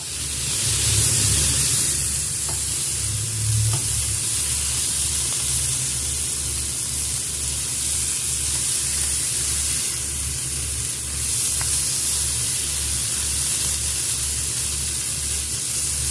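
Pork, onion and garlic with bagoong sizzling steadily in a hot pan while being stirred, with a low throb pulsing about twice a second underneath.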